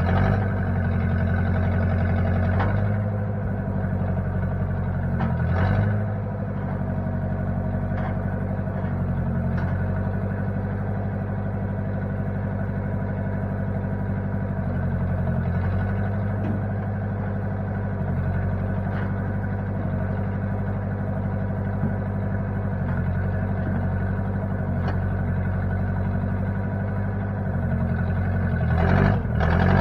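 1960 Case 540 backhoe's replacement engine running steadily, its note shifting briefly a few times as it takes load.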